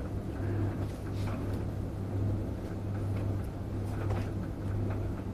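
A steady low mechanical hum that swells and eases slightly, with faint scattered ticks and rustles over it.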